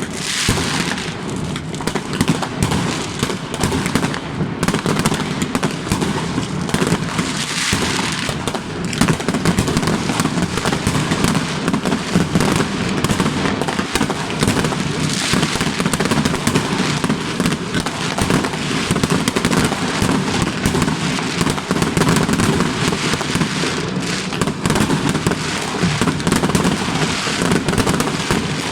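Many fireworks going off at once: a continuous crackle of overlapping bangs and pops, with brief louder hissing bursts now and then and no pause between shots.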